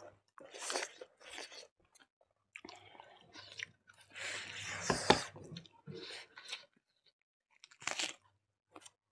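Close-up chewing and crunching of mouthfuls of rice, chicken curry and raw leafy greens eaten by hand, in irregular bursts with short silences between.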